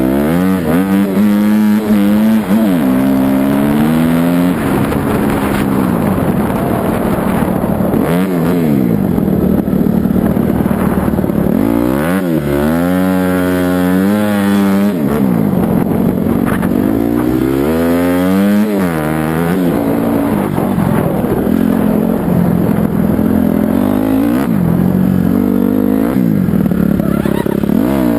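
Dirt bike engine revving up and down several times, with stretches of steadier running in between.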